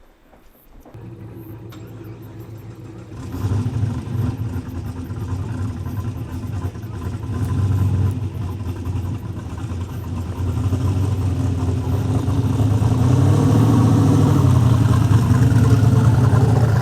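Holden Torana drag car's turbocharged LS V8 running at a low, steady idle speed. It gets louder in steps: about a second in, again about three seconds in, and louder still in the last few seconds, with a brief small rise in revs near the end.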